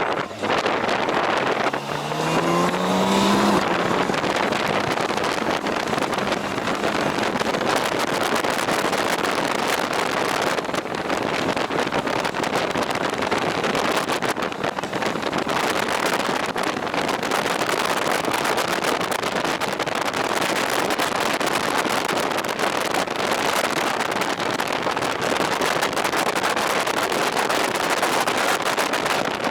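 Motorcycle riding at speed, with heavy wind rush on the microphone throughout. About two seconds in, the engine revs up briefly in a rising whine.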